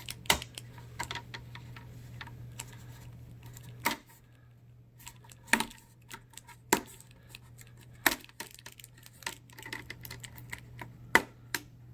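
Plastic screen bezel of an Alienware 17R4 laptop being pried off, its snap clips releasing in irregular sharp clicks and snaps, a few louder than the rest, over a faint steady hum.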